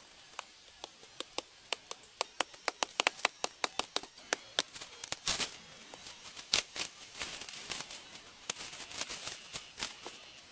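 A run of sharp taps that starts slowly and quickens to several a second over the first four seconds, followed by more irregular, softer clicks and crackles.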